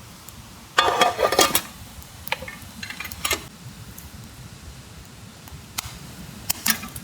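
Metal camp cookware and utensils clattering: a burst of clinks and scrapes about a second in, then a few single clicks and taps.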